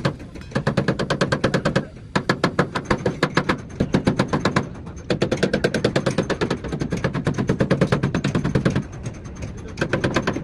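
A pneumatic hammering tool, such as an air hammer or chisel, working car body sheet metal. It goes in rapid, even strikes, about a dozen a second, in bursts of one to three seconds with short pauses between them.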